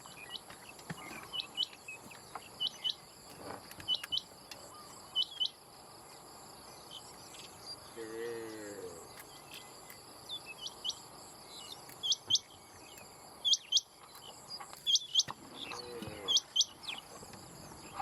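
Male rain quail calling a short, sharp doubled note, repeated about once every second or so, with a pause of several seconds midway. Steady high insect trilling runs underneath.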